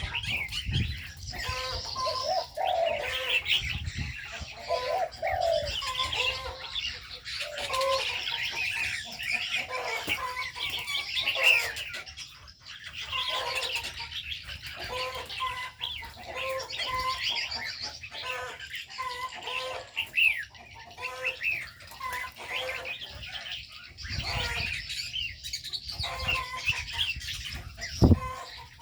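A mix of aviary birds chirping and twittering without pause, with doves cooing in short repeated low notes underneath.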